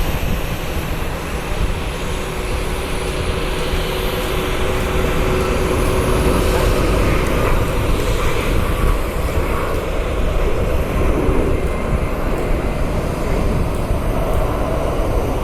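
Boeing 737 MAX 9 airliner's CFM LEAP-1B jet engines running as a loud, steady roar, growing a little louder about halfway through.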